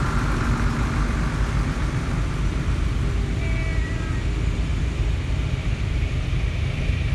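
Antique tractor engines running: a low, steady rumble.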